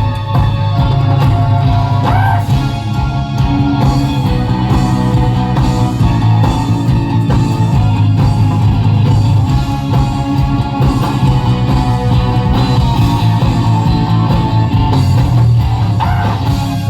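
Live funk band playing an instrumental passage with electric guitars, bass, keyboards and drums, with a strong, steady bass line.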